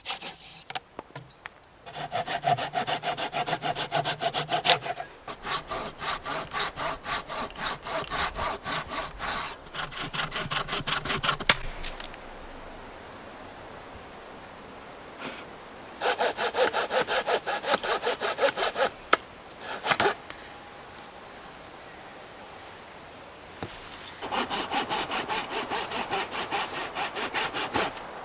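Hand saw cutting through wood in quick back-and-forth strokes, in several bouts with short pauses between them.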